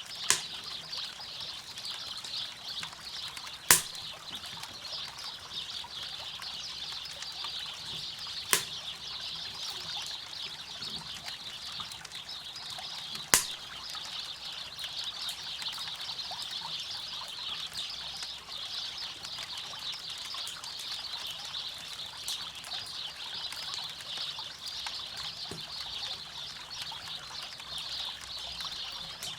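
Steady rushing and trickling of river water, with four sharp, loud pops from a crackling campfire spread over the first half.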